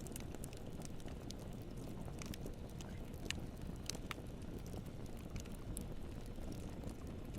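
Campfire burning: a steady low rumble with scattered, irregular sharp crackles and pops.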